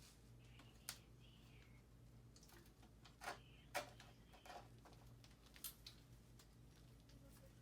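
Near silence with a steady low hum, broken by about five faint, short clicks and taps of hands handling the dirt bike's parts and wiring, the sharpest a little past the middle.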